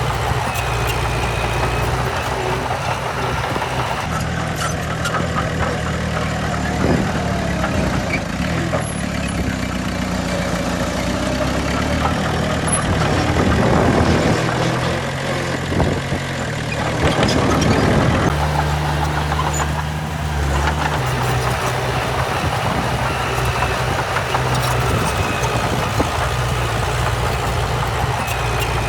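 Heavy diesel engine of earthmoving machinery running, its pitch stepping up and down as the throttle changes, with a louder stretch of revving about halfway through.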